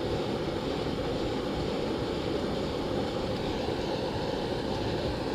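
Wind buffeting an action camera's microphone: a steady low rumbling noise.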